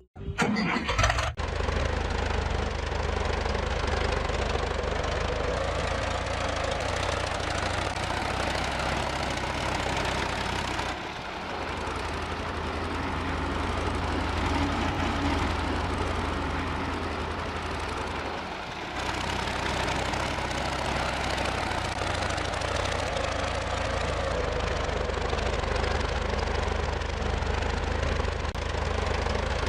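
Tractor engine running steadily with a low, even chug. It dips briefly twice, about a third and about two-thirds of the way through.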